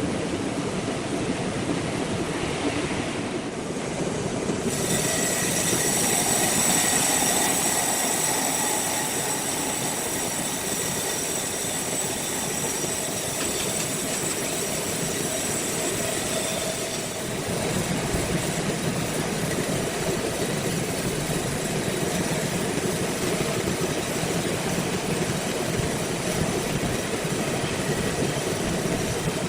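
Heavy machinery running steadily, with a faint high whine from about five seconds in that drops away after about seventeen seconds.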